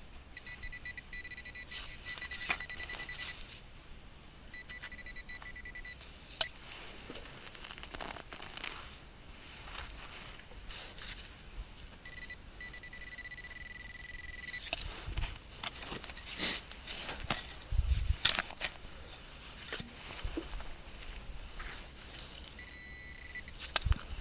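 A metal detector's steady, high target tone sounds four times, for one to three seconds each, as it is swept over a shallow target being dug out. Between the tones come scrapes and sharp knocks of digging in cold ground.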